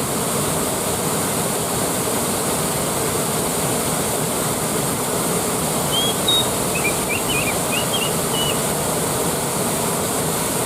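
Waterfall rushing steadily. A quick run of short, high chirps comes through about six seconds in and lasts a couple of seconds.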